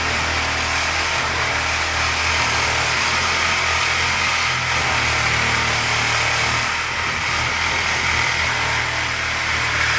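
Electric power saw with a metal-cutting blade running steadily as it cuts through a refrigerator's cabinet, a continuous motor whir with cutting noise and a slight dip near the end.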